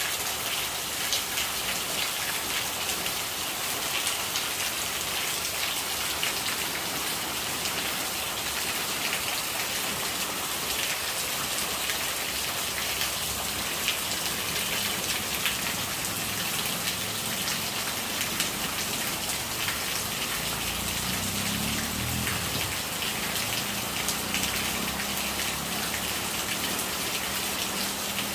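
Steady rain with many individual drops pattering on a surface, and rainwater running and gurgling. A faint low rumble joins about halfway through and is strongest around two-thirds of the way in.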